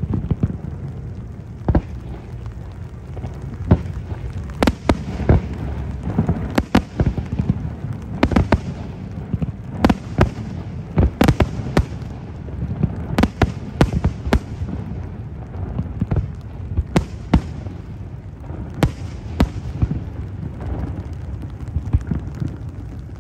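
Fireworks display: a rapid, irregular run of sharp bangs from bursting shells, over a continuous low rumble of booms.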